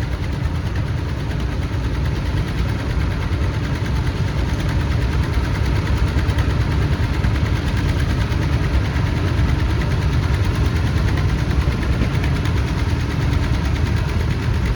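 Tractor engines running steadily at low speed, a continuous low rumble that grows slightly louder.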